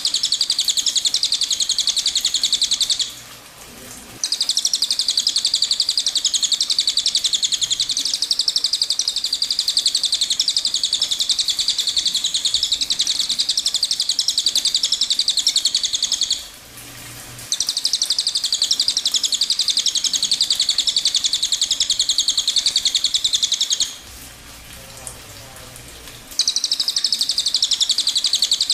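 Cililin bird singing its rapid-fire 'tembakan' song: a dense, high-pitched trill held in long unbroken bouts. Three times it stops briefly for about a second or two, then starts again.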